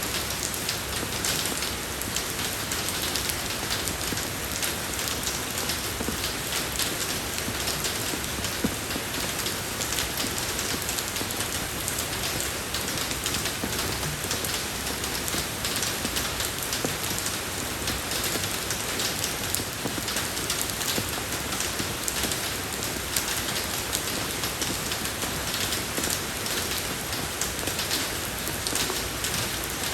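Steady rain falling on a road surface: an even hiss flecked with many small drop taps.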